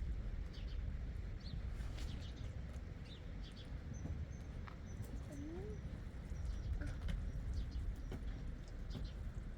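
Birds chirping now and then over a steady low rumble, with a short rising call about halfway through.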